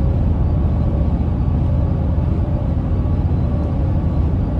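Steady cabin noise of a 2022 Toyota Tundra TRD Pro Hybrid cruising at highway speed: a low rumble from the big tyres and the twin-turbo V6, with a little wind noise.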